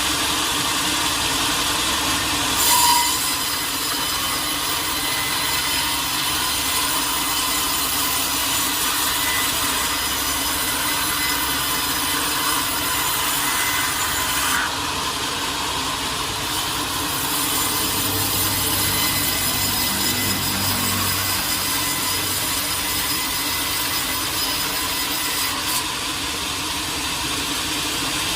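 A sawmill saw cutting steadily through a large teak log: a dense, continuous hiss of blade through wood, with a short, sharp sound about three seconds in.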